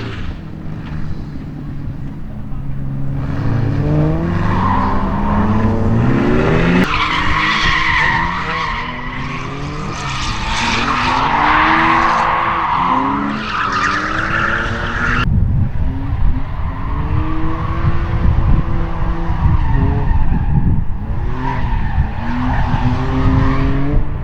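Drift cars sliding: engines revving up and down hard while the tyres screech, the sound changing abruptly twice.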